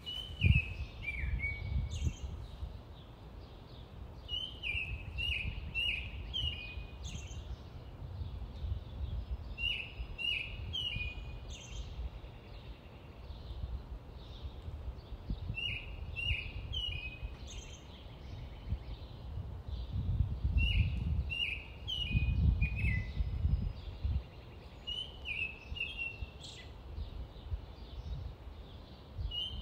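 A songbird singing the same short phrase of a few quick falling notes over and over, about every five or six seconds, over a low rumble that swells for a few seconds about two-thirds of the way through.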